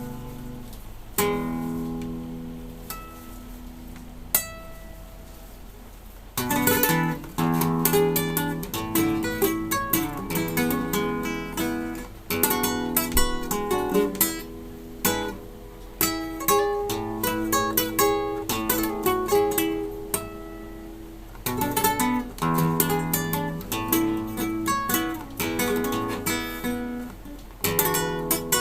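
Solo classical guitar played live: a soft passage of held notes slowly fading, then from about six seconds in a louder, rhythmic passage of plucked chords and runs.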